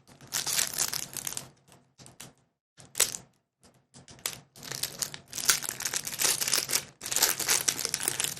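Foil wrapper of a Pokémon booster pack crinkling and tearing as it is opened by hand, in irregular crackly bursts with a couple of short pauses.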